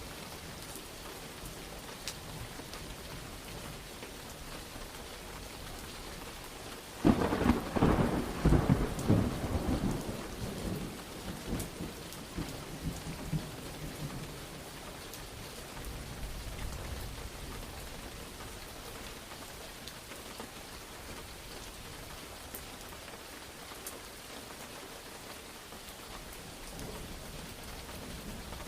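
Steady rain falling, with a sharp, loud crack of thunder about a quarter of the way in that rolls on and dies away over several seconds, followed later by a fainter low rumble.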